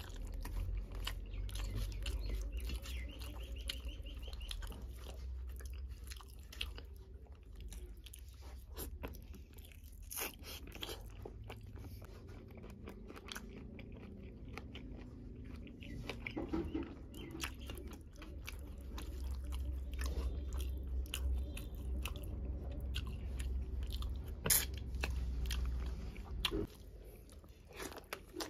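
Close-up chewing and mouth sounds of a person eating rice and meat curry by hand, with many short wet clicks and smacks, the sharpest one about three-quarters of the way through.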